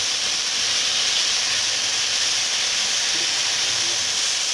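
Boiled chicken pieces in soy sauce sizzling steadily in a hot pan as they are stir-fried with a silicone spatula, the frying stage of twice-cooked chicken.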